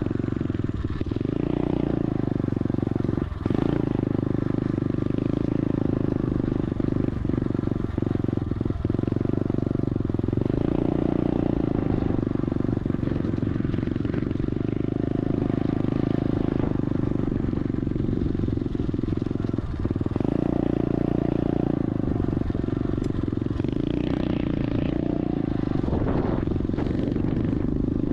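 Small dirt bike engine, likely the SSR 125 automatic's air-cooled single-cylinder four-stroke, running at a steady cruising speed while being ridden. A few brief clatters come through from the ride.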